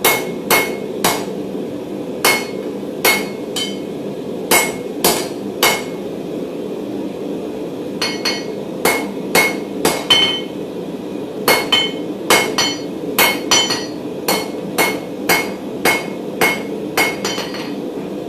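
Hammer blows on hot mild steel bar on an anvil, squaring off round stock. The blows come in uneven runs of about two a second with short pauses, and each strike gives a brief metallic ring. A steady hum runs underneath.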